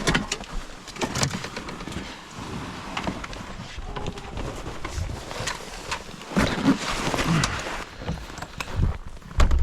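Wind buffeting the microphone in uneven gusts, with scattered knocks and clatter.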